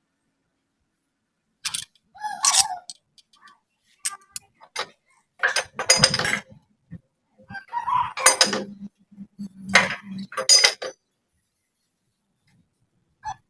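Metal tools and parts clinking and clattering in several separate bursts, then stopping about two seconds before the end.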